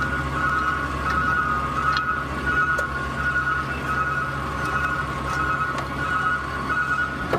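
Garbage truck engine running steadily with a repeating, pulsing high electronic tone over it.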